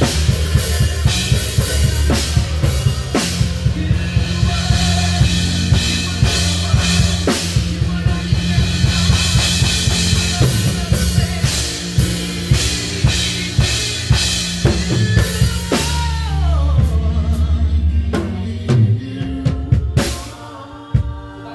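Live drum kit (kick, snare and cymbals) playing a groove with the band, over a steady bass line and sustained chords. Near the end a cymbal crash lands and the playing drops away.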